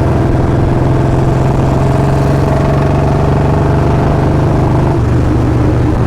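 Royal Enfield Bullet 350's single-cylinder engine running very loud through a free-flow L-bend exhaust with a long Punjab silencer while riding, its note changing about five seconds in.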